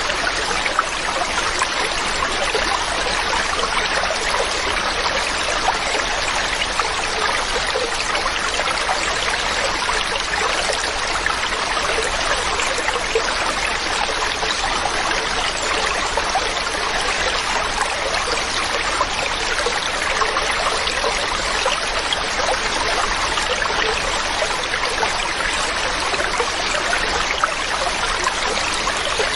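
Mountain stream running steadily, water splashing and trickling over rocks with a constant rush.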